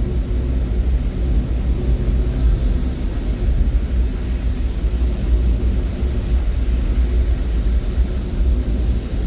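Steady low rumble of a moving road vehicle, its engine hum running evenly with no change in speed.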